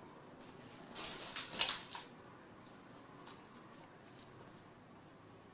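Rustling and light clicking, loudest in a cluster about a second in, from a kitten playing among dried nandina sprigs and berries, with a few soft ticks afterwards and one short high squeak a little past the middle.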